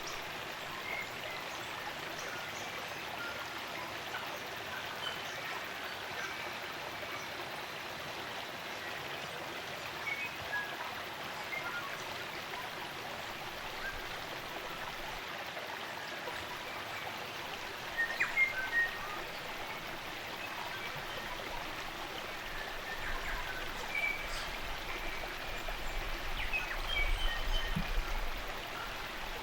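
Spring-fed stream running steadily, with scattered short chirps of New Zealand native forest birds over it and a brief louder burst of chirping about two-thirds of the way through. A low rumble builds near the end.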